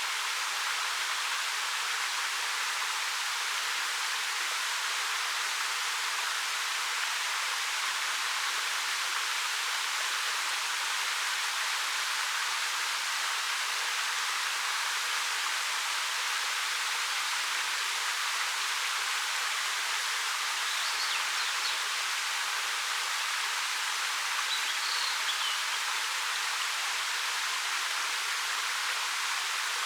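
A 13 m waterfall flowing over a black rock face, making a steady, even rush of falling water that is bright and hissy with little low rumble.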